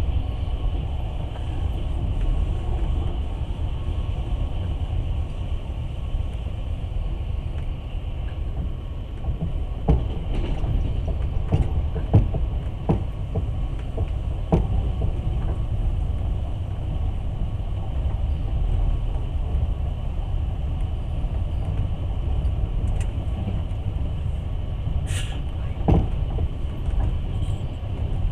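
Passenger train running, heard from inside the carriage: a steady low rumble of wheels on rails, with a few sharp knocks around the middle and another near the end.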